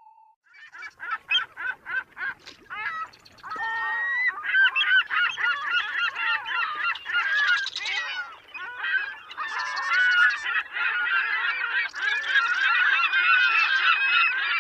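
Geese honking: a few separate honks at first, then a whole flock calling over one another from about four seconds in.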